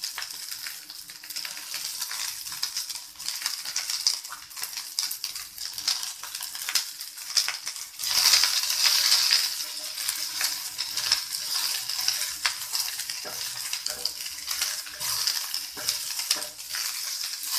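Chopped onions sizzling in hot oil in a non-stick kadhai, stirred with a spatula that scrapes and clicks against the pan. The sizzle grows louder about eight seconds in.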